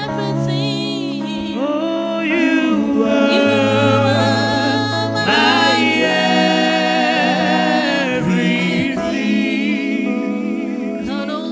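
Slow gospel worship singing, a voice with vibrato over sustained keyboard chords whose bass note changes every couple of seconds.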